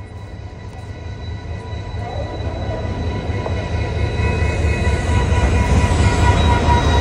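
Indian Railways locomotive-hauled express train pulling into the station, its rumble growing steadily louder as it approaches. A steady high squeal of wheels and brakes rings over it as the train slows to stop at the platform.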